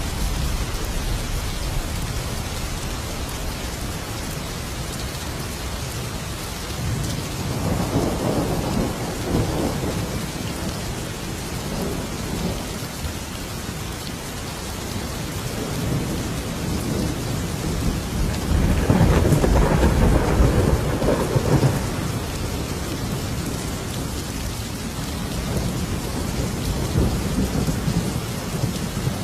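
Thunderstorm: steady heavy rain with rolling thunder. Two long low rumbles build and fade, the second and louder one about two-thirds of the way through.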